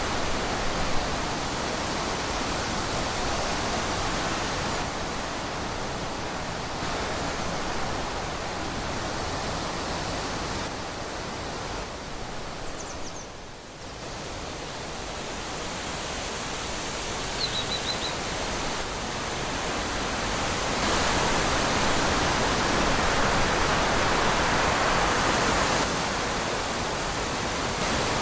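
Wind blowing through trees, rising and falling in gusts, with a brief lull about halfway and a stronger spell in the last third. Two faint, short high chirps sound just before and just after the lull.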